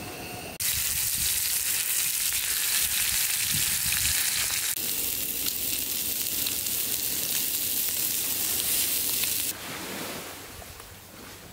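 Food sizzling as it fries in a hot pan, a loud steady hiss that starts abruptly, changes slightly near the middle and drops away sharply near the end.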